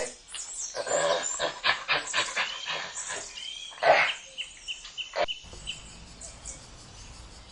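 Monkeys calling in a rapid run of short, sharp, high calls, with one louder call about four seconds in. The calls cut off abruptly just after five seconds, leaving a quieter steady background with faint high chirps.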